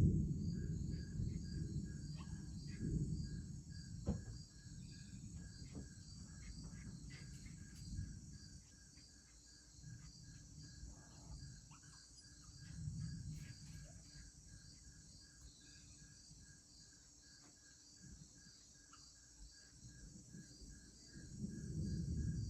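Crickets chirping steadily, about two chirps a second, over a high steady insect hum. Low rolling thunder rumbles underneath, swelling at the start, again midway and near the end.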